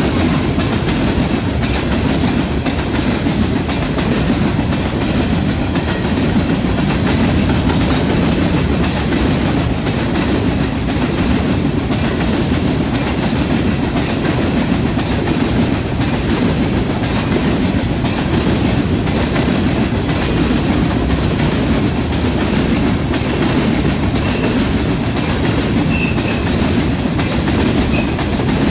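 Covered hopper cars of a long freight train rolling past close by: a steady, unbroken rumble of steel wheels on rail, with repeated clicks as the wheels run over the rail joints.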